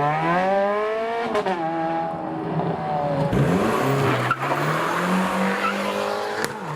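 A supercar engine accelerating hard. Its pitch climbs for about a second and a half, breaks at a gear change and climbs again. Midway it drops sharply, then settles into a steadier, lower drone.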